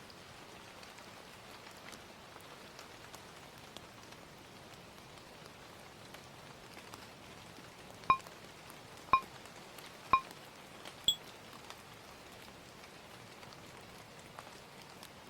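Steady rain ambience, then a timer's countdown of four short electronic beeps a second apart, three at one pitch and a final higher one, marking the end of a pomodoro study session.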